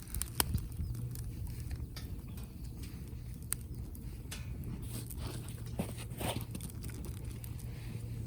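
Firewood burning in a fire grill, crackling with a few sharp pops, a strong one near the start and a run of them about two thirds of the way through, over a low steady rumble.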